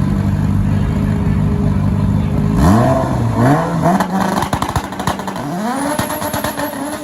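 Drag car's engine idling loudly, then launching: the revs climb, drop at a gear change and climb again, with a burst of rapid crackles, and a final climb held near the end.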